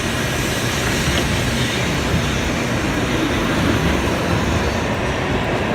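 Shinkansen train running past at the platform: a steady, loud rushing of wheel and air noise, its highest hiss thinning near the end.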